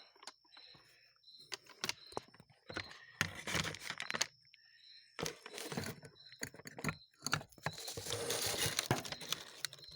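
Close-up handling noise of small carburetor parts being fitted by hand: scattered clicks and taps with short rustles, turning into a denser stretch of scraping and rustling near the end.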